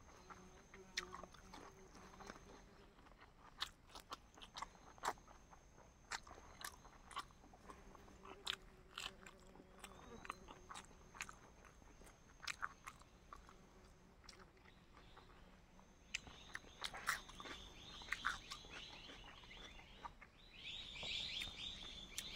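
A person biting and chewing food, heard as irregular soft crunches and wet mouth clicks.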